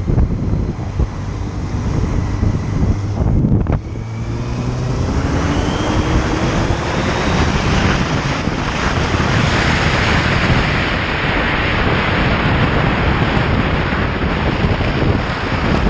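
Motorcycle engine accelerating: its note breaks off briefly about four seconds in, as at a gear change, then climbs steadily in pitch. From about halfway through, a loud wind rush on the microphone covers the engine as speed builds.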